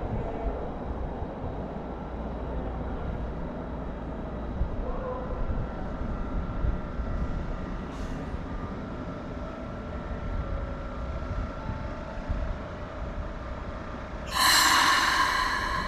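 Keikyu train running with a steady rumble. Near the end a loud, high-pitched sound of several ringing tones starts suddenly as a train comes through.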